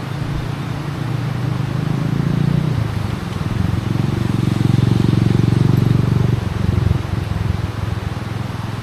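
A motor engine running with a low, steady hum. It grows louder around the middle, then eases off after about six and a half seconds.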